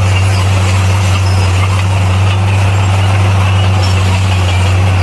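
Bulldozer's diesel engine running steadily at an even pitch, with a constant low hum.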